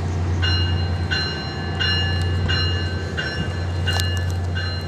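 Train locomotive running with a steady low rumble as it gets ready to depart, while a bell rings in evenly spaced strikes, about one and a half a second.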